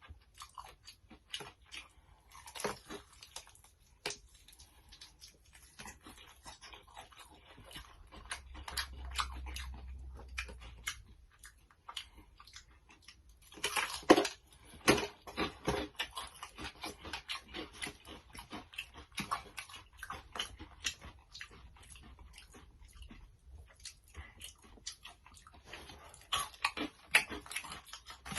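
Close-up chewing and crunching of Takis-crusted fried chicken: irregular crisp crackles and bites, with a louder burst of crunching about halfway through.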